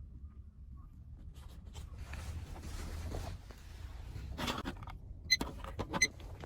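Rustling and handling noises over a low rumble, then a few sharp, ringing metallic clinks near the end.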